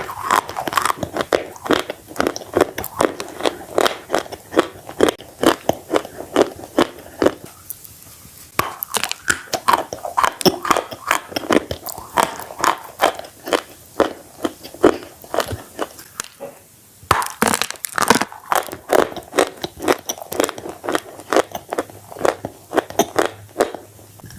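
Close-miked chewing and biting of bread dipped in red clay paste: dense, rapid crunchy and wet mouth sounds, pausing briefly about 8 seconds in and again about 17 seconds in.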